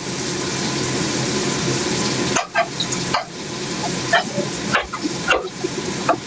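Food sizzling steadily as it fries in a pan, with a spatula stirring and scraping in short strokes roughly once a second from partway through.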